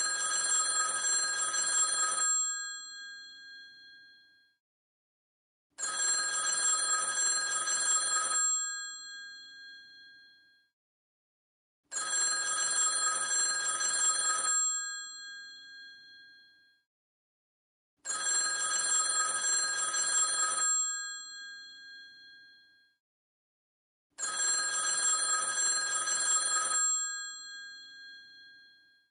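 Old telephone's bell ringing in a repeating cadence: five rings, each about two and a half seconds long with the bells fading out after, separated by about three and a half seconds of silence.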